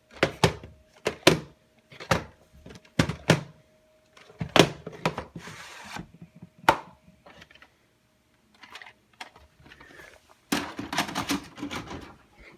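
Mechanical clicks and clunks of a VCR handling a VHS cassette, in several separate clusters with a denser rattling run near the end, over a faint steady hum.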